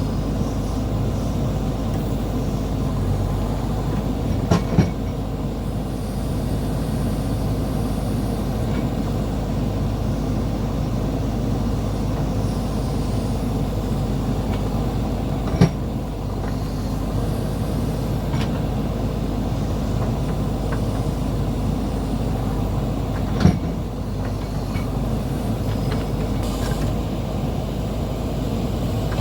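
Diesel engine of heavy road-repair machinery running steadily under work, with three short sharp knocks spread through it.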